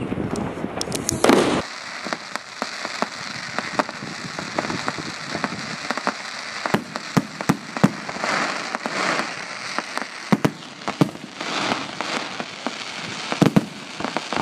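Fireworks going off, with many scattered sharp cracks and pops and short bursts of crackling. A louder rushing noise in the first second and a half cuts off abruptly.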